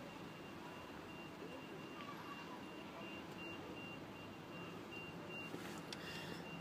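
Faint ambient background noise with a thin, high-pitched beeping that keeps pulsing on and off.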